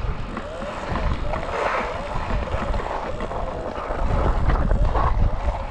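Wind buffeting the microphone in gusts, with a faint wavering whine underneath.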